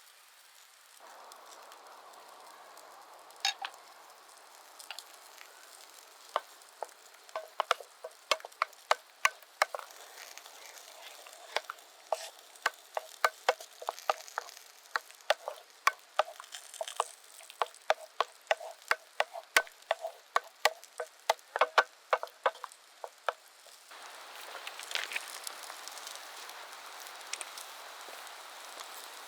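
Food sizzling in a pan, with a utensil clacking against the pan over and over as it stirs, two or three knocks a second, from about six seconds in until shortly before the end. Near the end the knocking stops and the sizzle grows louder.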